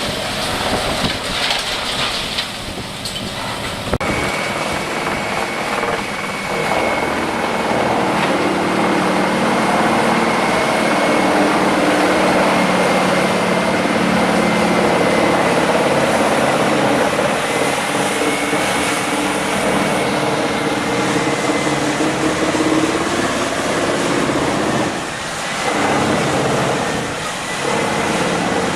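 A heavy engine-driven machine running steadily with a thin high whine above its low drone. The sound changes abruptly about four seconds in, with a brief drop in level near the end.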